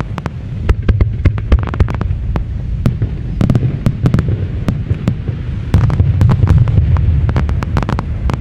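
Aerial fireworks going off: many sharp bangs and crackles in quick succession over a steady low rumble, thickest in clusters in the middle and the second half.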